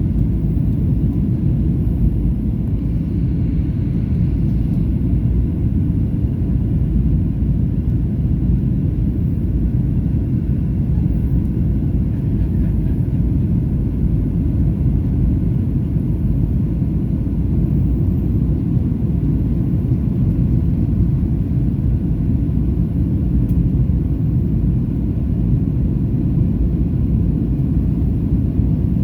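Steady low rumble of engine and airflow noise inside the cabin of a Boeing 737-800 airliner with CFM56-7B engines, during the descent toward landing.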